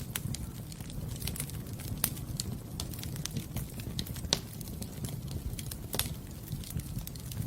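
Wood fire burning in a fireplace: a low steady rumble of flame with irregular crackles and sharp pops, the loudest pops about two, four and six seconds in.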